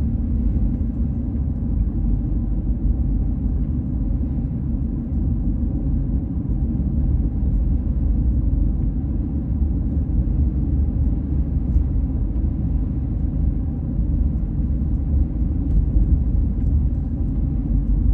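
Steady low rumble of a car driving along: road and engine noise, with no clear change.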